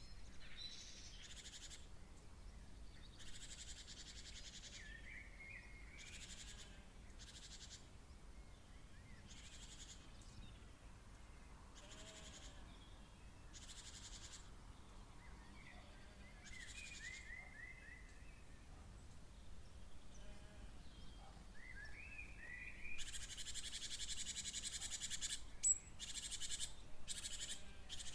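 Night-time wildlife: a few quick series of chirping bird notes over repeated hissing buzzes, each about a second long, with a longer, louder buzz near the end.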